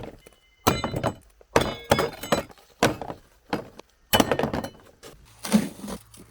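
A series of dull thunks with rustling, about one a second, and a longer hissing scrape near the end.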